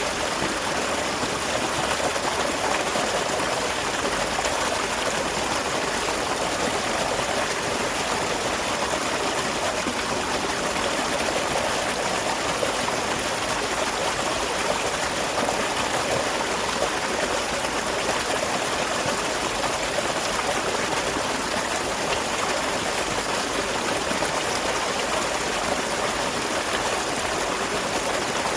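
Small waterfall splashing and running steadily.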